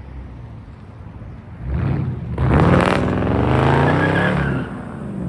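Straight-piped Hemi V8 of a Jeep Grand Cherokee idling, blipped briefly about two seconds in, then revved harder for about two seconds, its pitch climbing and falling back to idle.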